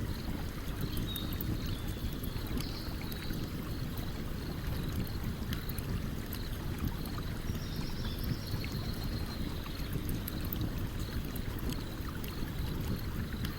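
Stream water flowing steadily under a campfire's scattered faint crackles and pops. A few faint high-pitched chirps come and go.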